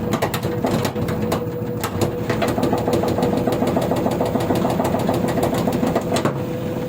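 LG washing machine running with a steady hum and a steady mid-pitched tone, punctuated by irregular sharp knocks and clicks. The knocks come thickest in the first two seconds and again around six seconds in. This is the knocking fault the machine is being checked for.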